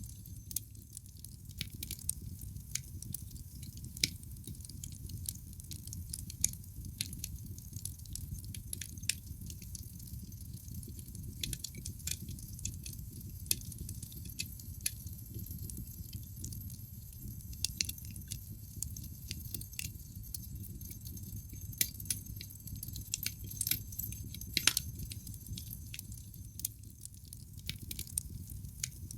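Wood fire burning in a fireplace: irregular sharp crackles and pops from the burning logs over a steady low rumble. A few louder pops come about 4, 12 and 25 seconds in.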